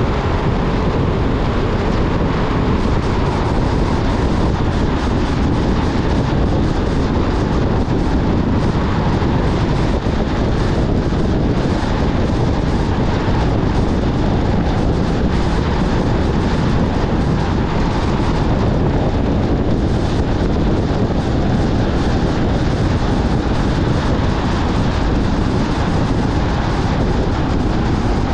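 Steady road and wind noise from a car driving at a constant speed.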